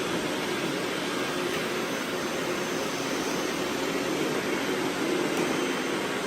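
Several robot vacuums running at once, a steady whirring drone of their motors and brushes.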